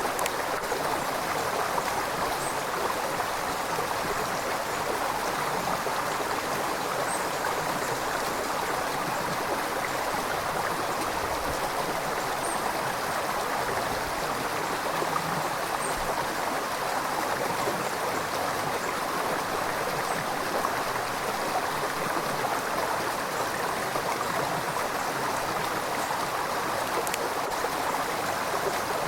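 River water flowing steadily, an even rushing and gurgling over rocks, with faint high ticks now and then.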